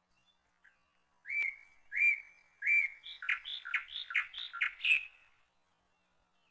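A songbird singing: three clear whistled notes, then a quicker run of notes alternating high and low, ending about five seconds in.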